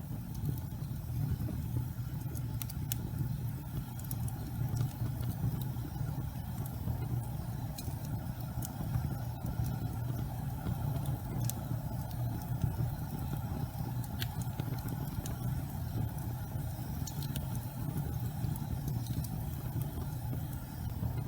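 Fireplace fire burning with a steady low rumble of flame and scattered sharp crackles.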